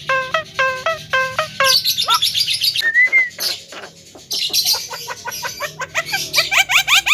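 Javan myna calling loudly in a varied run: evenly repeated notes about two a second, then rapid high chatter and a slurred whistle, a short lull, more chatter, and quick rising notes about four a second near the end.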